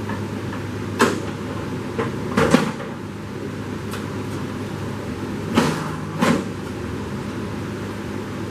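Heavy metal clunks and knocks from a Ford Model A engine hanging on a chain hoist as it is shaken to work it free of its mounts; about five separate knocks, the loudest a double knock in the middle and two near the end.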